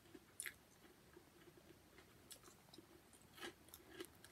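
Faint chewing of a chocolate-and-hazelnut-filled mini biscuit, with a few soft crunches.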